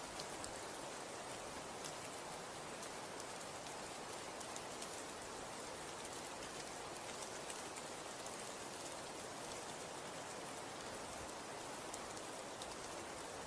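Snow falling steadily: an even hiss with many scattered light ticks of it landing.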